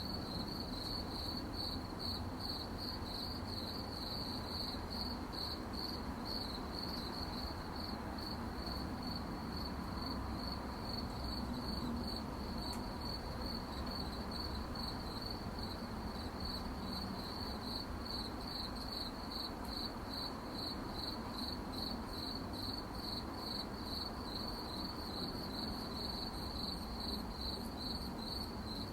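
Crickets chirping steadily at night, one continuous pulsing high trill, over a faint low background hum.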